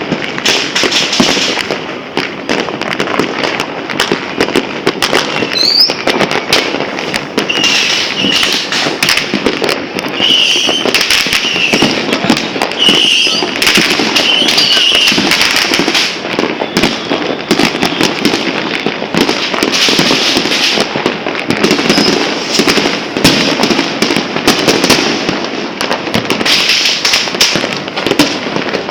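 Many fireworks and firecrackers going off together, a dense, unbroken run of overlapping bangs and crackling, with a short rising whistle about six seconds in.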